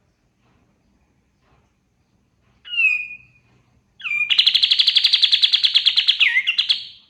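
Kapas tembak bulbul singing: a short falling whistle about three seconds in, then a long fast trill of repeated notes, about ten a second, from about four seconds in until near the end.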